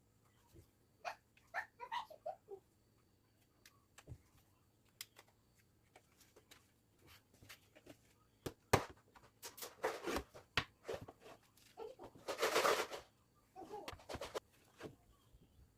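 Scattered light clicks, taps and short rustles of things being handled, with a longer rustle about twelve seconds in.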